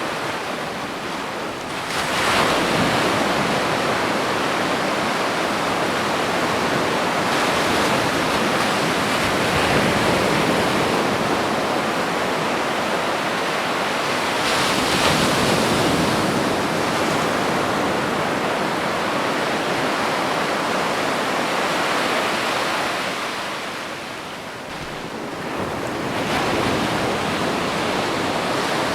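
Ocean surf washing onto a beach: a continuous rushing hiss of breaking waves, swelling louder as a wave breaks about every several seconds, with a brief lull a few seconds before the end.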